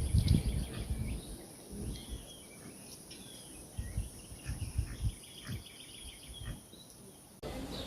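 Nature soundscape: small birds chirping in short calls over a steady high-pitched insect buzz, with scattered low thumps. The sound cuts off suddenly near the end.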